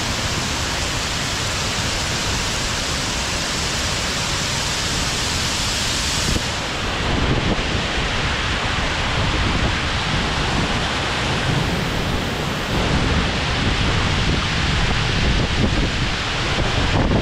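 Heavy rain pouring down steadily in a rainstorm. From about six seconds in, a low, uneven rumble joins the rain.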